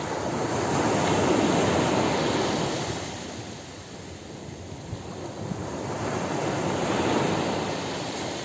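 Ocean surf breaking and washing up a beach: two waves swell and fade, the first loudest about a second in, the second about seven seconds in.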